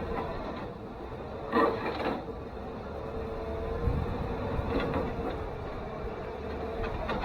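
Chevrolet Silverado 1500 pickup running steadily while pulling on straps to drag out a buried culvert pipe, with several sharp clunks and knocks over the top.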